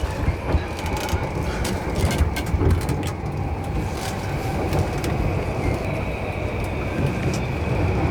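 Commuter train running on its tracks: a steady low rumble with scattered clicks, and a thin high whine that grows stronger about six seconds in.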